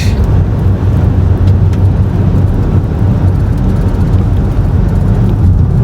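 A car being driven, heard as a steady low rumble of road and engine noise.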